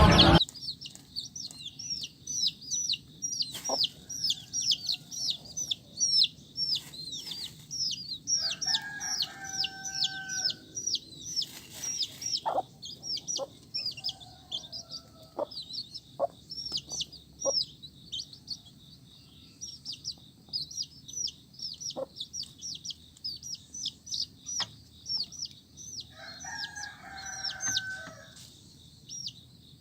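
A group of baby chicks peeping continuously, many short high falling peeps several a second. Twice an adult chicken gives a longer, lower call, and there are a few light taps.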